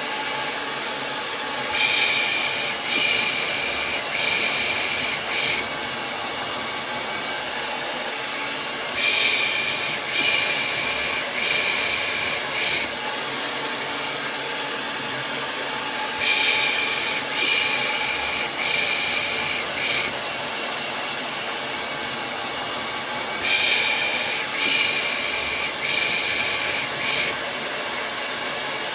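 Hair dryer running steadily as white noise, with a rhythmic 'pış pış' shush for lulling a baby laid over it. The shush comes four times in a row, about once a second, and the group repeats every seven seconds or so.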